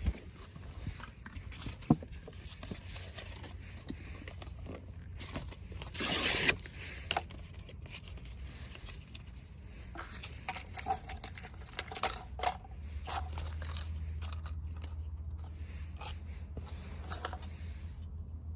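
Scattered clicks and scrapes from handling fire-making materials for a fire pit, with a loud half-second burst of noise about six seconds in.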